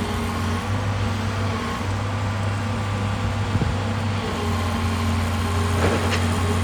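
Excavator's diesel engine running steadily, with a deep, even hum, and a couple of light knocks near the end.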